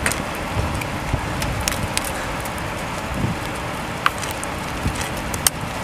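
Steady rushing roar of a nearby multi-vortex tornado with a low rumble, mixed with wind on the microphone, and scattered sharp ticks throughout.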